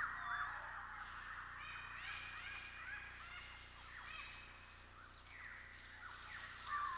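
Faint chorus of wild birds: many short chirps and quick up-and-down whistles overlapping, thickest in the first couple of seconds and thinning out after that.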